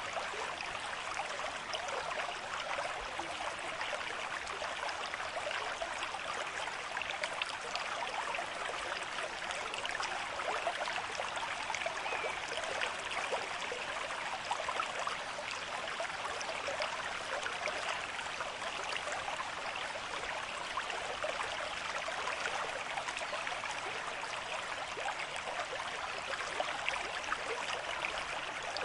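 A river stream flowing at a moderate rate: a steady rush and burble of water over rocks.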